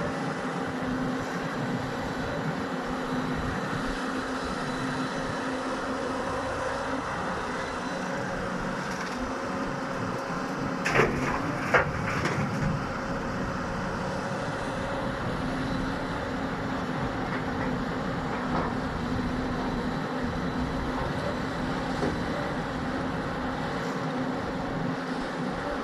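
Diesel engine of a Hyundai excavator running steadily while it loads a dump truck, with two sharp clanks about eleven seconds in.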